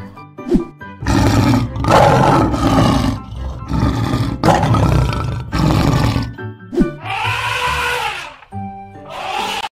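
Lion roars played as a sound effect over light background music, loud and rough for about five seconds, then a second call that rises and falls in pitch about seven seconds in.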